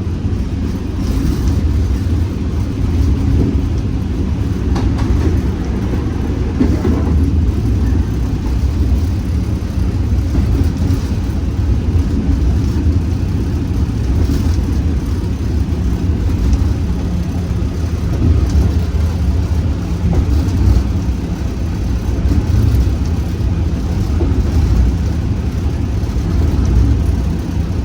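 Class 47 diesel locomotive's Sulzer V12 engine running steadily under power, heard from inside the driver's cab as a continuous low rumble.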